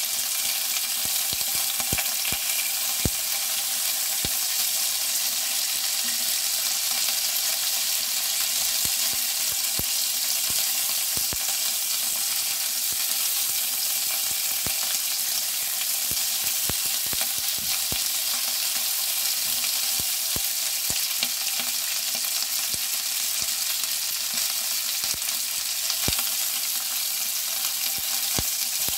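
Cocktail sausage pieces and sliced meat sizzling steadily in a hot nonstick frying pan as a silicone spatula stirs them, with scattered sharp clicks throughout.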